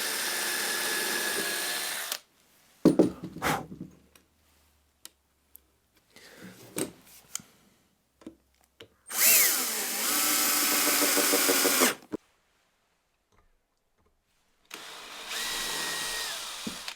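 Power drill drilling pilot holes in MDF, in three short runs: about two seconds at the start, about three seconds in the middle with a rising whine as it spins up, and about two seconds near the end. A few knocks and handling sounds come between the runs.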